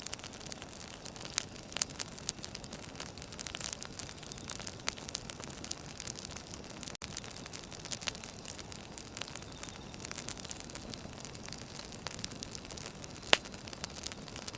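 Wood fire burning: a steady hiss with frequent irregular crackles and one louder pop near the end.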